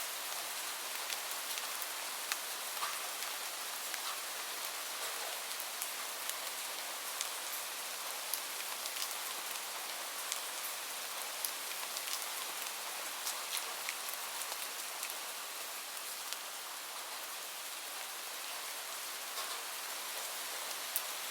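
Steady rain, with many separate drops ticking sharply on a surface against the even hiss of the downpour.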